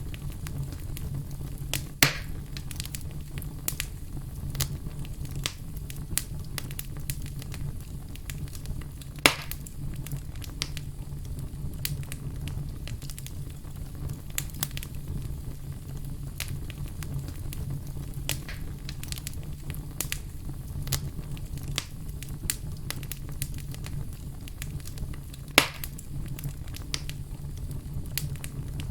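Wood fire crackling: a steady low rumble of flames with frequent small crackles and three louder pops, about two, nine and twenty-five seconds in.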